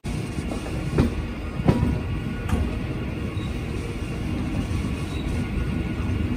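MEMU train running on the track: a steady low rumble with three sharp wheel clacks over rail joints in the first half.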